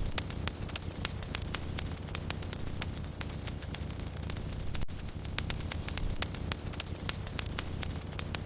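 Wood fire crackling, with frequent irregular sharp pops over a low steady rumble of burning.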